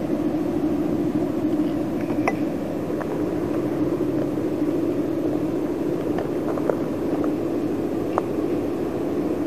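Steady mechanical running at a railway carriage wash, where rotating brushes and water sprays work on passenger coaches pushed slowly through by a diesel locomotive. It is a constant low hum with a few faint short clicks and squeaks.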